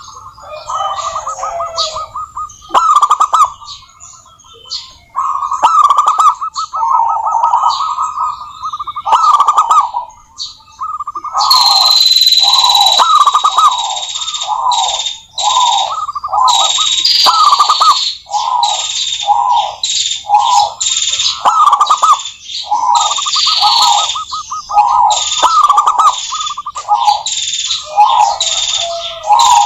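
Zebra dove cooing: repeated rippling, rapidly pulsed coo phrases of the local perkutut. A high-pitched steady sound joins about a third of the way in and carries on under the coos.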